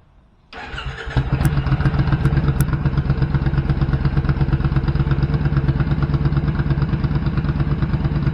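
Motorcycle engine starting about half a second in and settling straight into a steady idle with an even, rapid pulse, heard through a short cocktail-shaker exhaust with fibreglass-wrapped baffles.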